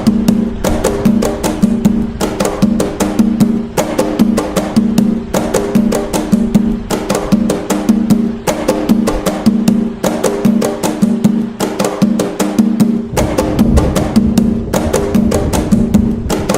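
Atabaque hand drums playing the toque nagô, the nagô rhythm of Umbanda: a fast, continuous, evenly repeating pattern of pitched drum strokes.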